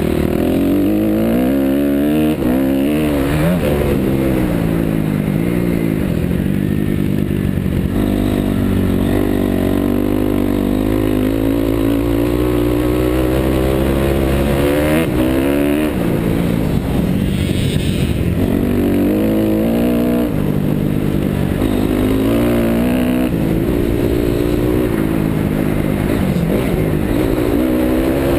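2009 Honda CRF250R's single-cylinder four-stroke engine revving hard, its pitch climbing and dropping again and again as the throttle is opened and shut through a motocross lap.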